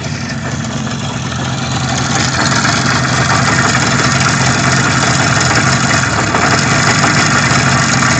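IZh Jupiter 5 motorcycle's two-stroke twin-cylinder engine running steadily, getting louder over the first two seconds or so and then holding an even note.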